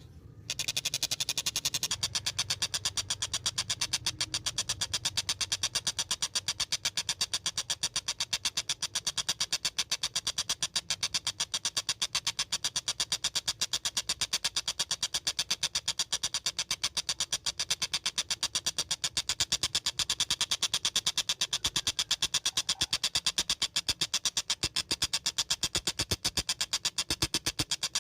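Tengkek buto bird calling: a long, fast run of evenly spaced, high notes, several a second, that goes on like a train's clatter, after a brief break right at the start.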